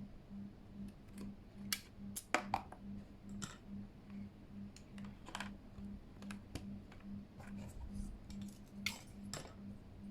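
Irregular plastic clicks and scrapes of keycaps being pulled off and pressed onto a Keychron K8 mechanical keyboard, sharpest in a quick cluster about two and a half seconds in and again near nine seconds. A faint low hum pulses about two to three times a second underneath.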